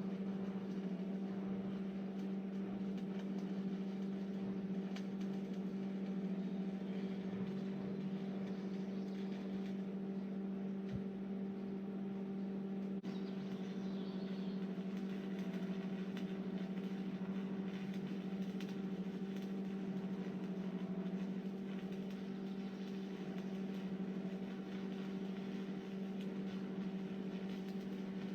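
Steady electrical hum from a welding machine, one even tone with overtones and a faint hiss behind it.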